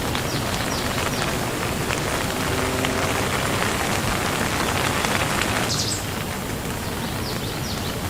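Steady rain falling, with individual drops pattering close by; the hiss eases slightly about six seconds in.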